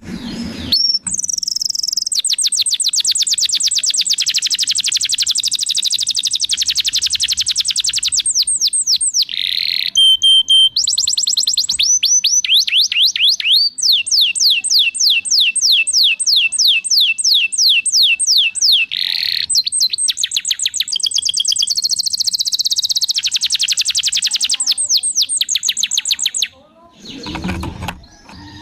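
Domestic canary singing vigorously: long rolling trills of fast, evenly repeated high notes, strung into several long phrases with short varied notes between them. Near the end the song stops and a lower, softer sound follows.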